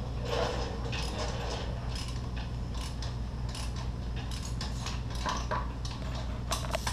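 Irregular metallic clicks and clinks of a socket wrench being worked on the exhaust bolts, over a steady low hum.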